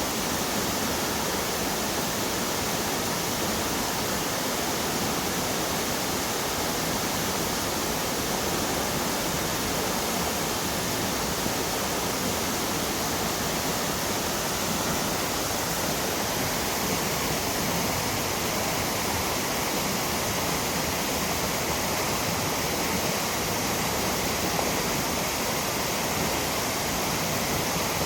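Waterfall rushing steadily: an even roar of falling water.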